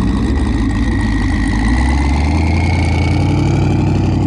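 Dodge Challenger R/T's V8 running loud and close, a deep steady exhaust drone that rises a little in pitch over the second half.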